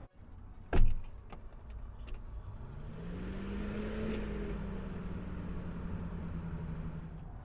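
A sharp knock under a second in, then a motor vehicle approaching and passing by: its engine hum rises in pitch and loudness, peaks about four seconds in, and slowly falls away.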